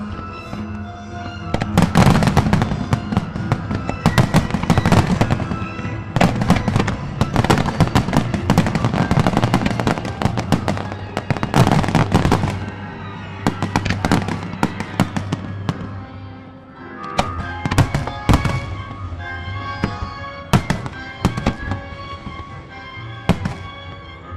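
Aerial firework shells bursting in rapid volleys: dense, repeated bangs with a brief lull about two-thirds through, over the pyromusical show's music.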